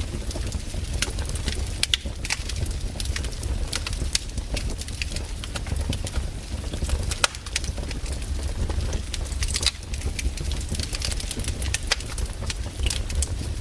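Wood campfire crackling: irregular sharp pops and snaps over a low, steady rumble of the flames.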